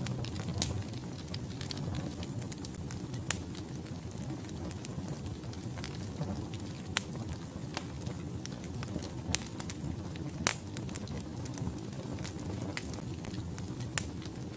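Wood fire burning in a fireplace, with a steady low rumble and logs crackling: sharp pops scattered irregularly, a few of them louder.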